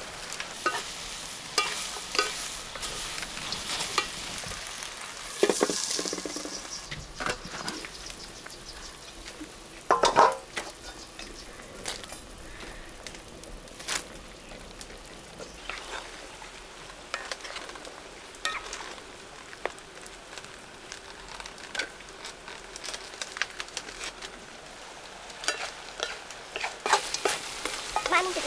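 Food sizzling in a large wok over a wood fire, with the scrape and clatter of a spatula stirring against the pan and a few louder knocks.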